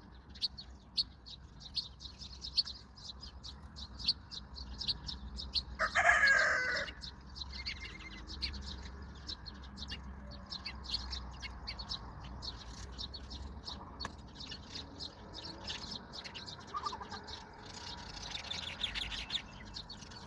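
Small birds chirping rapidly and almost without pause. About six seconds in, a chicken gives a single loud call lasting about a second.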